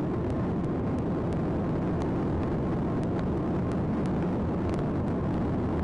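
Steady engine and road noise of a sheriff's patrol car driving fast in a chase, heavy and low, with faint light clicks scattered through it.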